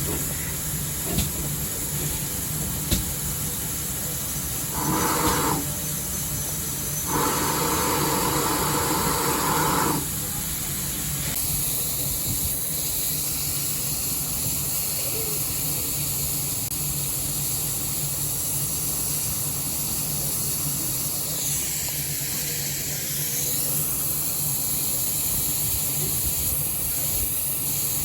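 Steam-hauled heritage train running: a steady rumble and hiss, with a louder stretch about five seconds in and another from about seven to ten seconds in.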